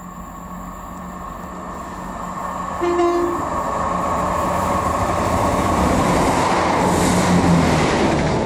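Diesel multiple unit approaching and running through the station, its engine and wheel-on-rail noise growing steadily louder until it rushes past close by near the end. About three seconds in it gives a brief horn toot.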